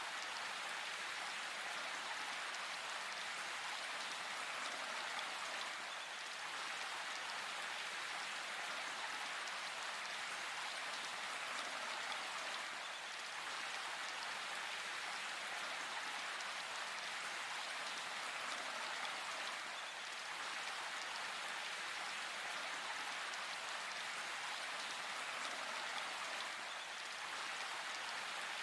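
Steady rain falling in a forest, an even hiss of drops with no thunder.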